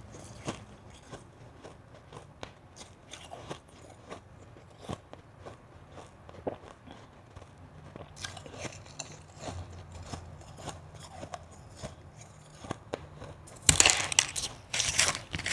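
Crunchy ice being bitten and chewed: scattered small crunches that grow more frequent about eight seconds in, then a burst of loud, dense crunching near the end.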